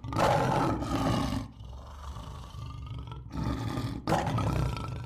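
Lion roaring: a loud roar at the start and another about four seconds in, with quieter rumbling between.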